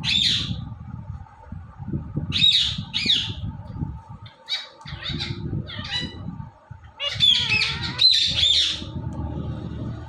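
Indian ringneck parakeet squawking in four bouts of harsh, high-pitched calls, with short pauses between them.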